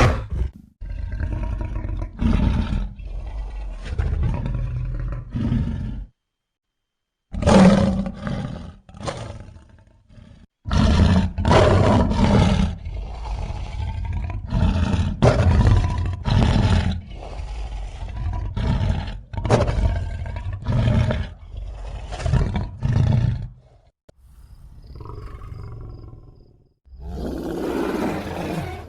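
Monster bear roars and growls built from grizzly and cave bear recordings: a rapid string of short, deep roars with brief gaps between them, a pause of about a second near the start, and a quieter, softer stretch near the end.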